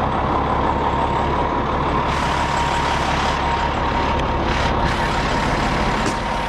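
Semi truck's diesel engine idling with a steady low rumble and a steady high whine, and a brief hiss about two seconds in.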